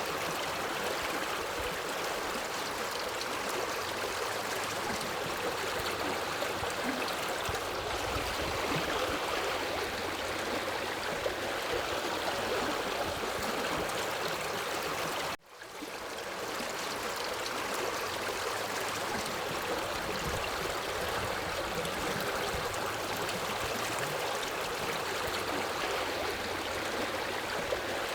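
River water flowing steadily. About halfway through, the sound cuts out for a moment and fades back in.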